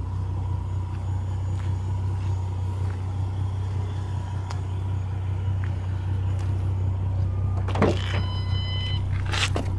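2007 Ford Mustang idling steadily with a low, even hum. About eight seconds in a door clicks, followed by a brief high electronic tone.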